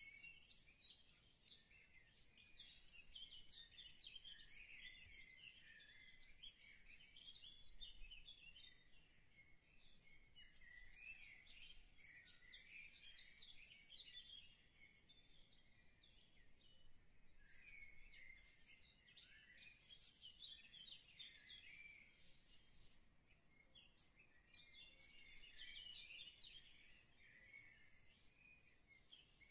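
Faint birdsong: many small birds chirping and twittering continuously in quick, overlapping high calls.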